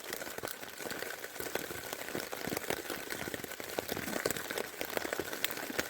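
Steady rain pattering on a backpacking tent's fly, a dense run of irregular drop ticks over a soft hiss.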